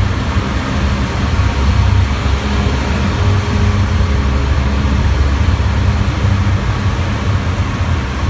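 Studio tour tram rolling along, heard from on board: a steady low engine and road rumble.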